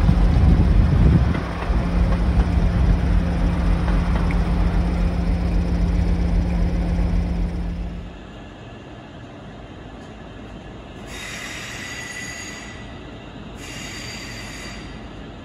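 A Transport for Wales diesel multiple unit running past with a steady, loud engine drone that stops abruptly about halfway through. Then two short bursts of high-pitched train wheel squeal.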